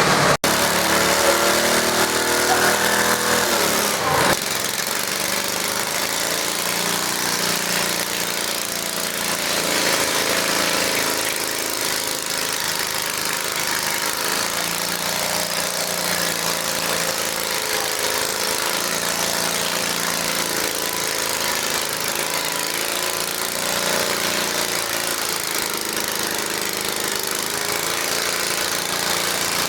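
Small garden tractor engine running hard while pulling a weight sled, its pitch falling around three seconds in. The sound breaks off abruptly about four seconds in, then goes on as a steady engine note.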